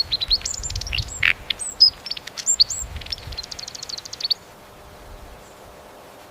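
A songbird singing a rapid string of high chirps, whistled notes and short sweeps, ending in a quick trill that stops about four seconds in.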